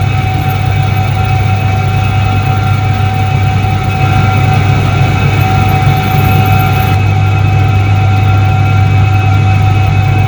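Soviet ISET-3 washing machine (1978) running, with its electric motor giving a loud, steady low hum and a few fainter steady whining tones above it.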